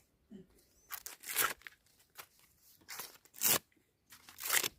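Green corn husks being pulled and torn off fresh ears of corn by hand: several short, crisp ripping strokes.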